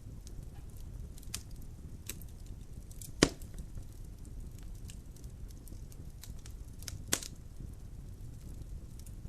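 Logs burning in a fireplace: a steady low rumble of flame with scattered small crackles, and two sharper pops, about three seconds in and again about seven seconds in, the first the louder.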